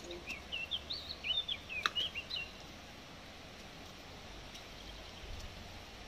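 A songbird singing a quick run of short, high chirping notes for about two seconds, then stopping, over faint steady outdoor background noise. A single sharp click comes about two seconds in.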